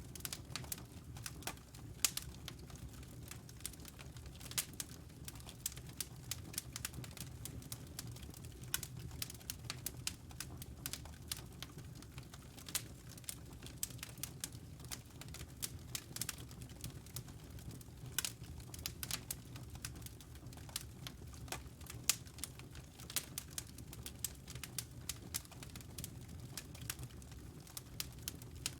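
Wood fire in a fireplace crackling, with irregular sharp pops over a steady low rumble of the burning.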